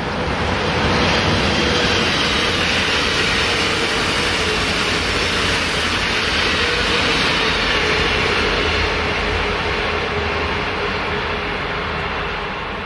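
Two coupled Class 622 (Alstom Coradia LINT 54) diesel multiple units passing close by at speed: a steady rushing noise with a faint tone that falls slightly in pitch. It swells in the first second and eases off near the end as the train moves away.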